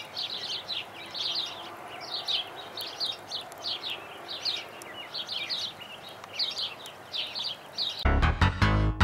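Small birds chirping over and over in quick short bursts, over a faint steady background hiss. About eight seconds in, rock music with electric guitar cuts in abruptly and is much louder.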